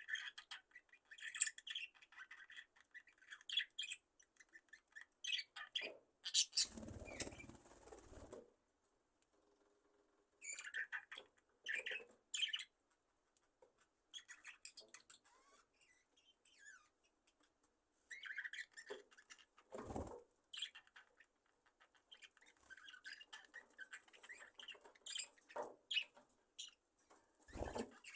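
Budgerigars chirping softly in scattered short bursts with quiet gaps between them. About six seconds in comes a longer rustle of fluttering wings lasting about two seconds, and there are brief soft thuds near twenty seconds and near the end.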